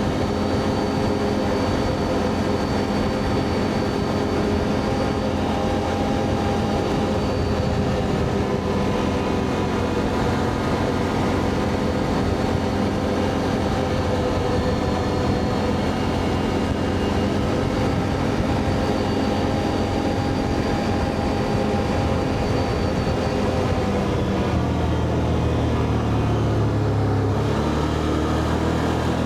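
Can-Am Outlander ATV engine running steadily at road cruising speed, with tyre and wind noise. Several seconds before the end the engine note dips as it slows, then climbs again.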